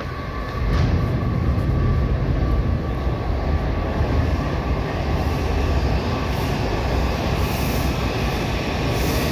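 Washington Metro subway train rumbling into an underground station. The low rumble swells about a second in and then holds steady and loud.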